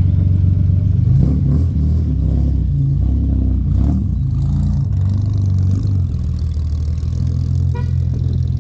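Ford Cortina LDV pickup's engine running through its twin-tailpipe exhaust. Its note shifts a little in the first few seconds, then settles into a steady idle.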